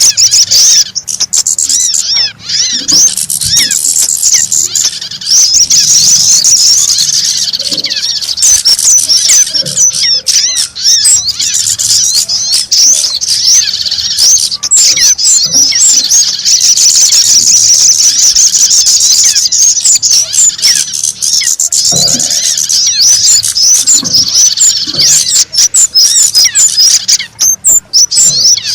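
Dense, continuous chorus of many small birds chirping and trilling at once, high-pitched and overlapping, as in a bird-trapping lure recording.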